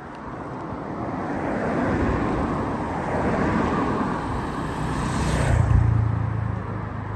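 Road traffic: a motor vehicle draws close and passes, its engine and tyre noise building to a peak about five and a half seconds in, then easing off.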